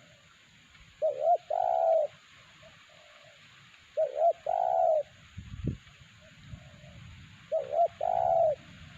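Spotted dove (terkukur) cooing: three phrases about three seconds apart, each a short double coo followed by a longer drawn-out coo.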